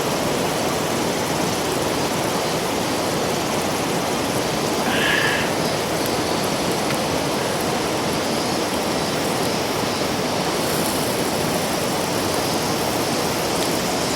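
Steady rushing of a river, with a brief high-pitched sound about five seconds in.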